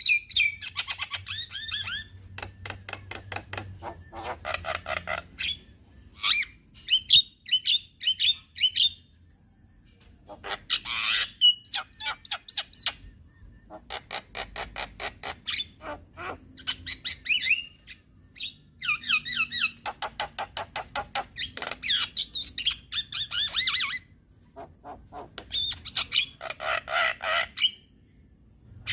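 Javan myna singing in bursts of rapid, harsh chattering notes mixed with squawks and short whistles, each burst a few seconds long with brief pauses between.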